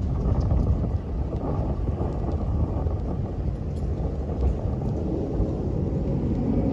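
Steady low rumble of an Airbus A330-300 airliner's engines and rushing air.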